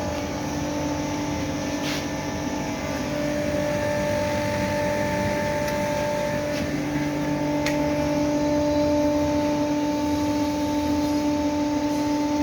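Gas-fired melting furnace running steadily: a constant hum over a noisy rush, with a couple of faint clicks.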